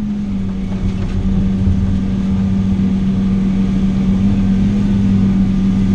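Large diesel engine running at a steady speed, a constant low hum.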